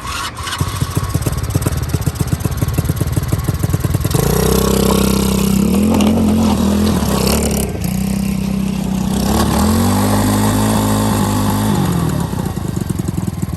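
Coolster 110cc dirt bike's single-cylinder four-stroke engine firing up on a new carburetor and NGK spark plug: it catches and idles, is revved up twice for a few seconds each time, then drops back to idle.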